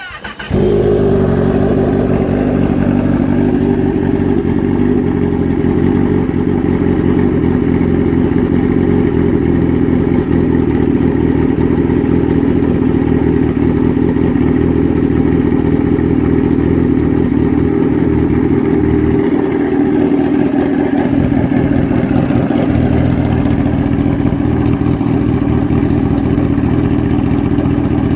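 2015 Kawasaki ZX-10R's inline-four engine starting up and then idling steadily through a Coffman's slip-on exhaust with the baffle removed.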